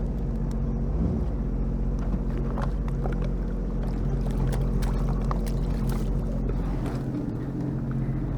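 Small boat's outboard motor running steadily at a constant speed, with a few faint clicks and knocks over it.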